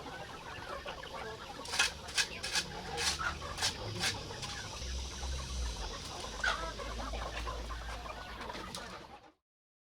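Chickens clucking, with a cluster of short sharp clucks a couple of seconds in and another later. The sound cuts off abruptly near the end.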